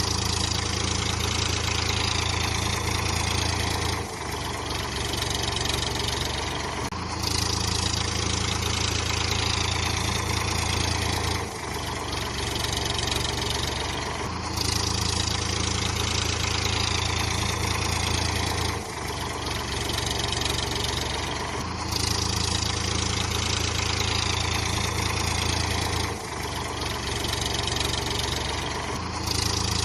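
Tractor engine sound running steadily, like an idle, with a low drone that shifts abruptly back and forth between two tones every three to four seconds in an even, repeating cycle.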